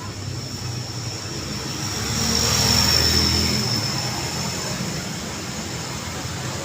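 Road traffic: a motor vehicle passes close by. Its engine and tyre noise swell to a peak about three seconds in and then fade back into the steady traffic hum, with a thin high whine loudest as it passes.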